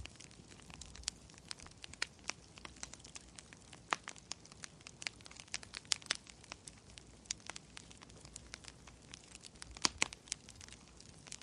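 Wood fire crackling, with irregular sharp pops and snaps over a faint steady hiss; a few louder pops come about four, six and ten seconds in.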